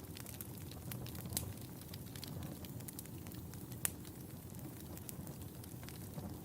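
Wood fire burning in a fireplace: a steady low rumble of flames with scattered sharp crackles and pops, one louder pop about four seconds in.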